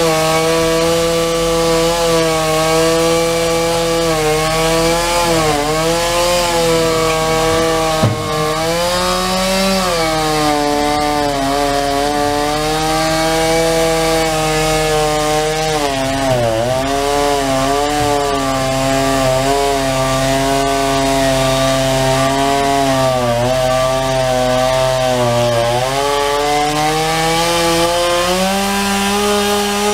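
Gasoline chainsaw cutting through a large tree, running continuously with its engine note dipping and recovering again and again. A single sharp knock comes about eight seconds in.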